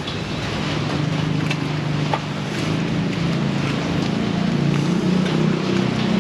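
Heavy rain pouring steadily, with a motor vehicle's engine hum building from about a second in and growing louder. A single sharp click about two seconds in.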